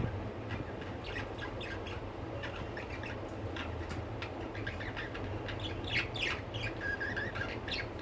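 Pet budgerigars chirping and chattering, many short quick chirps one after another, with a brief steady whistled note near the end.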